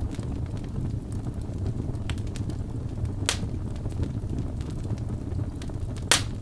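Wood fire burning in a fireplace: a steady low rumble of flames with scattered small crackles and two sharp pops, one about halfway through and a louder one near the end.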